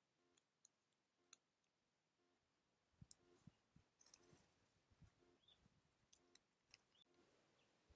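Near silence with faint scattered clicks and taps, a few soft low thumps in the middle, and a couple of tiny high chirps near the end.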